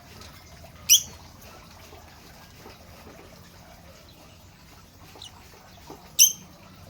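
Lovebird giving two short, shrill calls, about a second in and near the end, with a fainter call just after five seconds.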